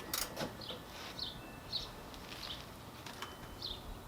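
Faint, short bird chirps repeated every second or so, with a few light metallic clinks near the start.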